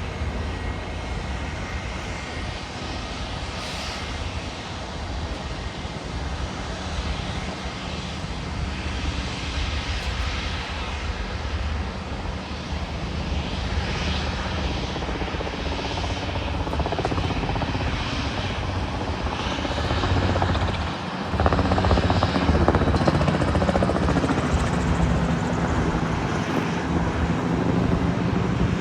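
Jet airliner engines during a departure: a continuous rumble that builds steadily and jumps to its loudest about three-quarters of the way through.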